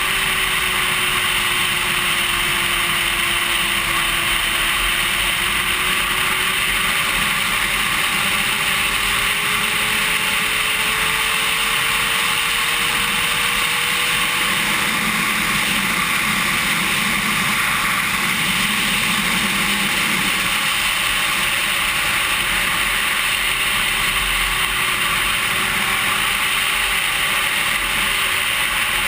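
Sport bike running at fairly steady, moderate revs under a heavy, even rush of wind noise on the camera's microphone. The engine note drifts slowly up and down rather than revving and shifting hard.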